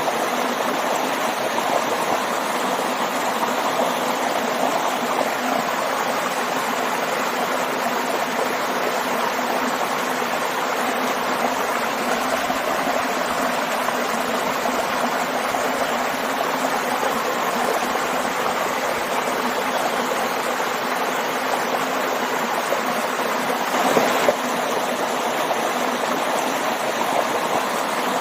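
Waterfall and stream rushing, a steady, even sound of falling and flowing water, with a brief louder splash about 24 seconds in.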